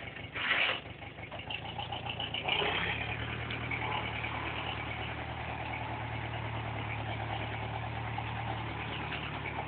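DTC 640 forestry tractor's engine running steadily at a low idle-like hum, with a short rush of noise about half a second in.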